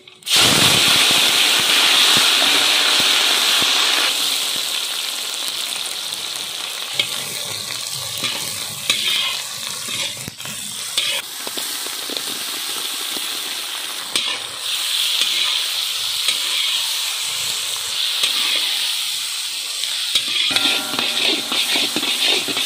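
Chopped onions, tomatoes and dried red chillies sizzling in hot oil in a large wok, stirred with a metal spatula that clicks and scrapes. The sizzle starts suddenly and is loudest for the first four seconds, then settles to a steady frying hiss.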